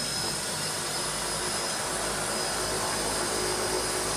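Steady cabin noise from a DHC-6 Twin Otter's two Pratt & Whitney PT6A turboprop engines and propellers just after touchdown, an even rushing drone with a thin high whine.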